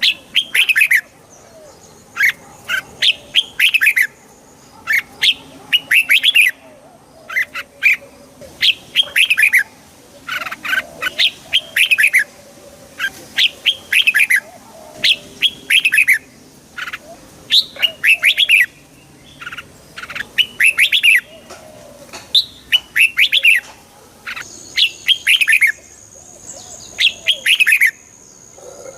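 Red-whiskered bulbul singing: short, bright warbled phrases of a few quick notes, repeated every second or two.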